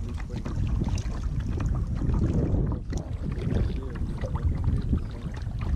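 Wind buffeting the action camera's microphone in a steady low rumble, with the splashing and dripping of kayak paddle strokes in the water.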